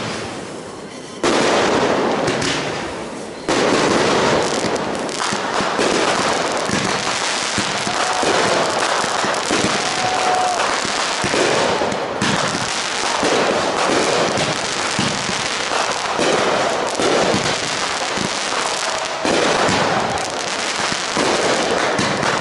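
Fireworks going off continuously, a dense run of crackling and popping from aerial bursts. Loud bangs come in suddenly about a second in and again after three and a half seconds.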